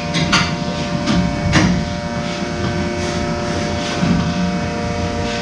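Steady mechanical hum of milking-parlour equipment, with a few sharp clanks about a third of a second and a second and a half in.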